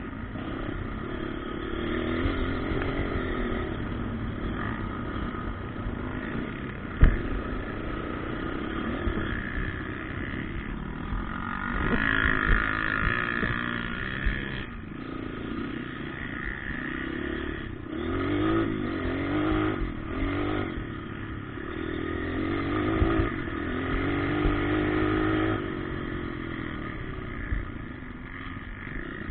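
Motocross dirt bikes running on a track, engines revving up and falling back again and again as they accelerate and shift. There is a sharp knock about seven seconds in.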